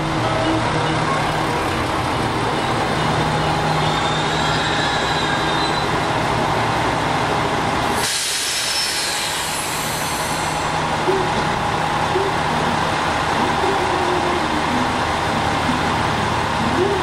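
Electric commuter train running along the platform as it pulls out. About 8 s in, this gives way to the steady hum of a stationary electric train waiting at the platform.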